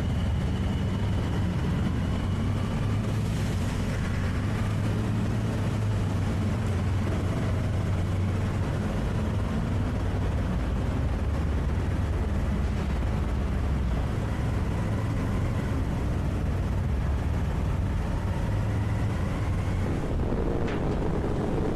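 Steady low engine drone at a constant pitch and level, with a few faint higher tones joining near the end.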